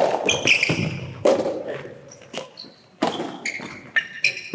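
Soft tennis rally: a rubber ball is struck by rackets and bounces on the court, giving five or six sharp hits about a second apart. Between the hits, shoes squeak briefly on the indoor court floor.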